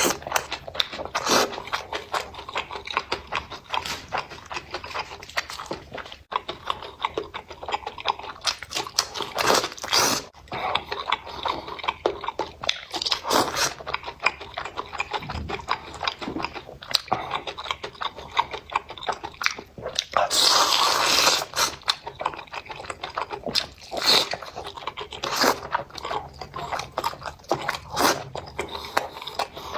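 Close-miked chewing and biting of spicy enoki mushrooms: a steady run of wet clicks, crunches and scrapes, with a longer noisy burst about two-thirds of the way through.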